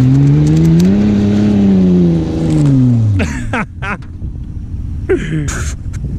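Holden VS Commodore engine revving up under load, holding, then dropping off and fading about three seconds in, as the car thrashes through a dirt paddock. Two short shrill yelps follow.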